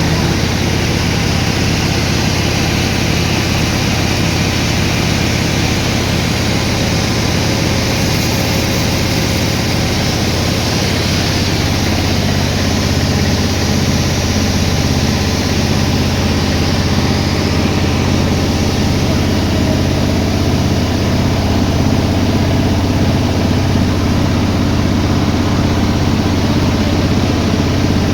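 An engine running steadily, typical of sawmill machinery, with a low, even drone. It gets slightly louder and shifts a little in pitch about halfway through.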